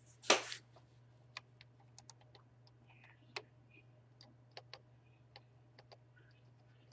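Faint, irregular clicks and taps of a computer keyboard and mouse, over a low steady hum, with a short breathy sound just after the start.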